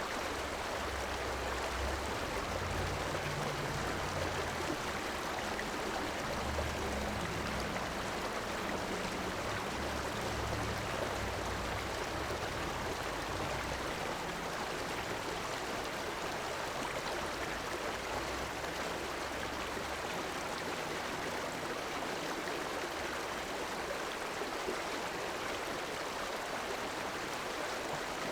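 Steady rushing of a flowing river, an even water noise without pauses; a low rumble underneath fades out about twenty seconds in.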